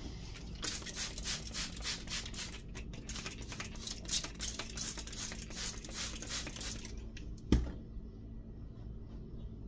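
Hands pressing and rubbing wet plaster cloth into place on model scenery: a quick run of short rubbing scrapes, then a single thump near the end.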